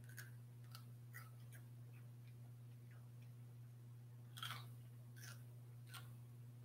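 A person chewing food close to the microphone: faint wet mouth clicks and small crunches, with a louder cluster about four and a half seconds in and two more near the end, over a steady low hum.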